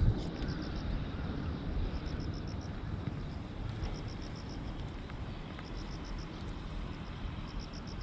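An insect chirping in short, high-pitched trains of rapid pulses, repeated every second or two, over a steady low rumble of wind or distant traffic.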